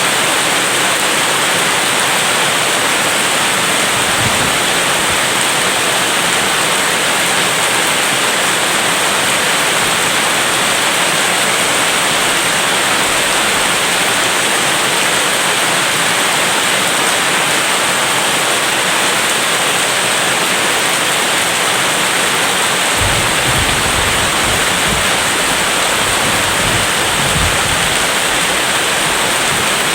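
Steady heavy rain, a dense unbroken hiss. A brief low rumble comes about 4 seconds in, and a longer, uneven low rumble runs from about 23 seconds in.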